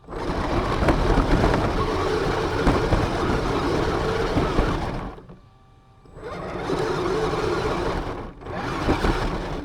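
RC car driving, heard from its onboard camera: a loud, rough rush of motor and wheels that starts suddenly, runs about five seconds, cuts out, then comes back in two shorter bursts as the throttle is applied again.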